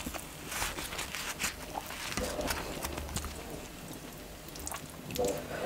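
Close-miked eating sounds: soft chewing and many small wet mouth clicks, along with naan being torn and scooped through chickpea curry by hand.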